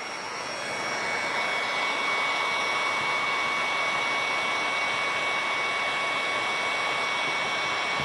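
Electric heat gun blowing steadily, a rushing air sound with a high fan whine, used to soften the glue under a fridge emblem. It grows a little louder in the first second, then holds even.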